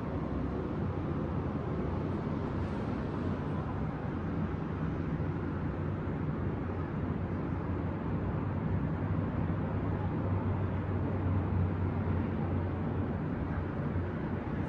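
Steady low rumble of distant city traffic, with a slight swell in level about nine to twelve seconds in.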